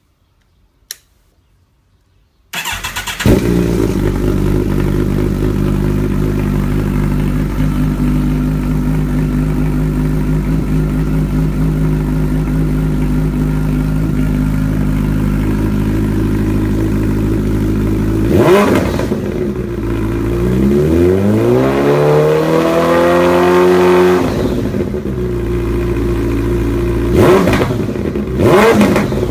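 2008 Kawasaki ZX-14 inline-four through a Brock's full exhaust, starting up a couple of seconds in and settling into a steady idle. It is then revved: one short blip, a longer rev that rises and falls back to idle, and two quick sharp blips near the end.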